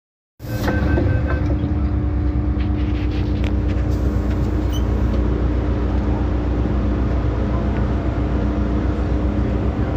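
Steady hum and rumble heard inside an MTR M-Train electric multiple unit, with several steady tones and no rise or fall in pitch; it cuts in abruptly just under half a second in. A short run of pulsed beeps sounds about a second in.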